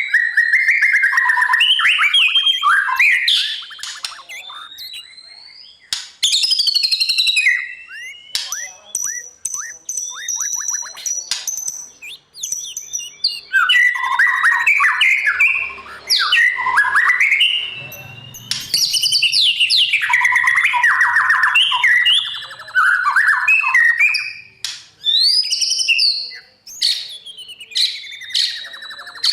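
White-rumped shama singing: loud, varied phrases of clear whistles, sliding notes and fast rattling trills, each a few seconds long with short pauses between.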